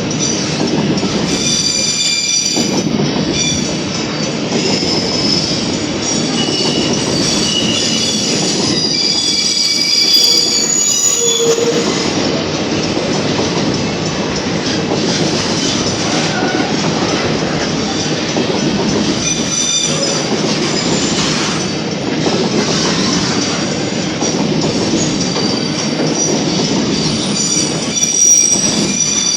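Freight train's empty flatcar wagons rolling past on the rails, a steady rumble and clatter of wheels, with high-pitched wheel squeal coming and going and strongest during the first ten seconds and again near the end.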